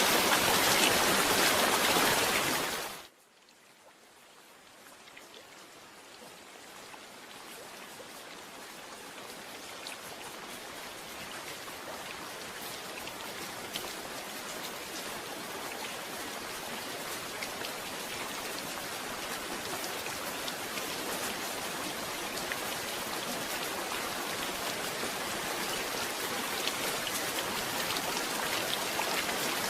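Steady rain that fades out sharply about three seconds in, then fades back in slowly and keeps growing louder, with individual drops tapping.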